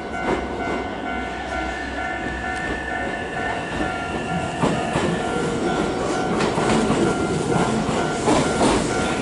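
Hankyu 1000 series electric train running into a station platform. A steady whine is heard at first; from about halfway the wheels clack over the rail joints and the rumble grows louder as the train comes closer.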